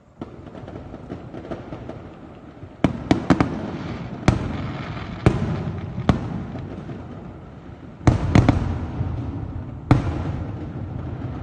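Aerial firework shells bursting: a series of sharp bangs, several in quick succession about three seconds in and again about eight seconds in, each followed by an echoing rumble.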